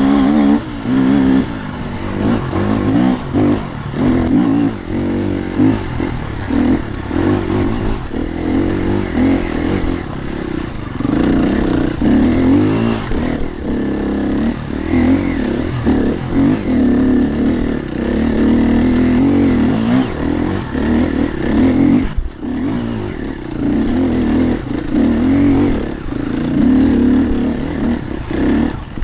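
Enduro dirt bike engine being ridden hard, revving up and down as the throttle is opened and shut again and again, with short drops in between.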